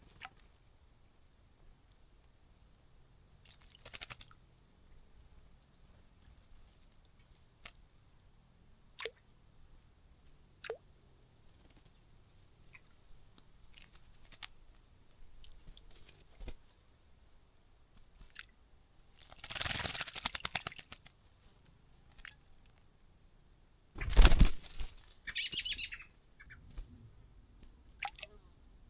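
Small birds bathing in a bird bath: two bursts of splashing and fluttering wings, the second the louder, with scattered small clicks and faint chirps between them.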